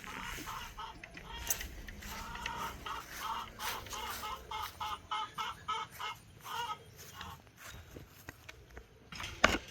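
Domestic hens clucking, a run of short clucks about three or four a second that stops around two-thirds of the way through. A sharp knock comes near the end.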